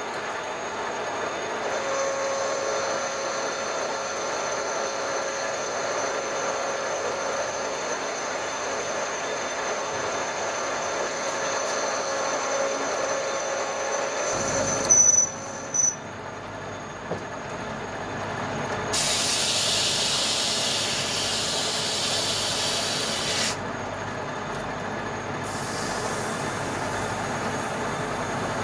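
Steady mechanical hum with a faint high whine. About halfway through come a few loud knocks, then a hiss that starts and stops sharply and lasts about four seconds.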